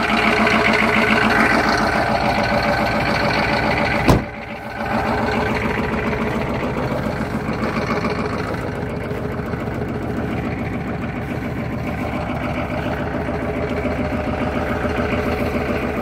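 Detroit 6.5-litre diesel V8 idling steadily in the freezing cold, a minute or so after a cold start helped by an hour on the block heater. A single sharp knock about four seconds in, after which the sound is briefly quieter.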